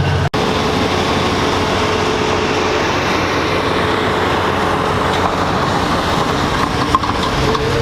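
Pulling vehicle's engine running hard at a truck and tractor pull, a loud steady noise with a split-second break just after the start.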